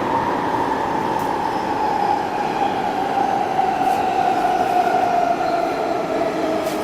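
1996 Stock London Underground train running, heard from inside the carriage: a steady running noise with the traction motors' whine falling slowly in pitch, the sign of the train slowing down.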